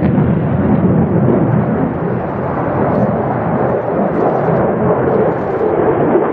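Loud, steady rumble of an F-16 Fighting Falcon's jet engine as the fighter flies its display.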